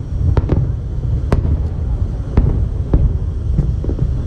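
Fireworks display going off: a continuous low rumble of bursting shells with sharp cracks in quick irregular succession, the loudest about a second in.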